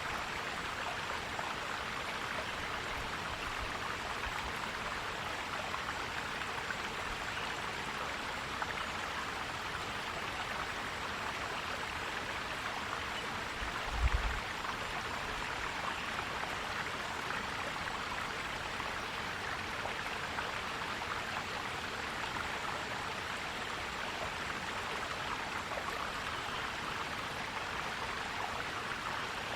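Forest stream flowing and gurgling steadily. There is one brief low thump about halfway through.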